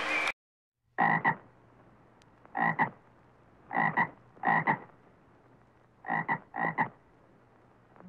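Frog croaking: six short croaks, each of two quick pulses, coming roughly in pairs about a second or more apart.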